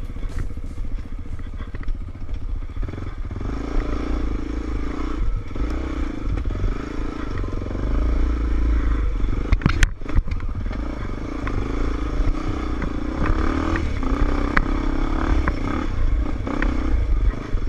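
Off-road enduro motorcycle engine revving up and down over and over as it is ridden, with clattering knocks from the bike over the terrain.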